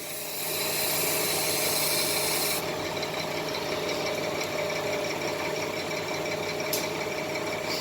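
Truck running, heard from inside the cab as a steady hum, with a high hiss for the first two or three seconds that then cuts off.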